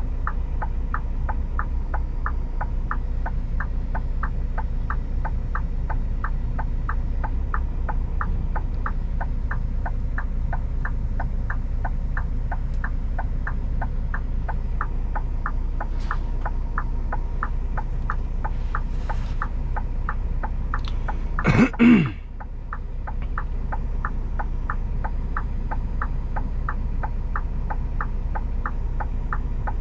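Inside the cab of a Scania G410 tractor unit: the diesel engine running with a steady low rumble under the regular ticking of the turn-signal indicator, a bit over two ticks a second. About three-quarters of the way through comes a brief loud sweep that falls in pitch.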